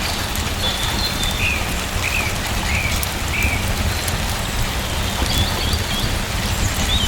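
Steady rain falling, with a bird giving a few short, high chirps in the first half and again a little later.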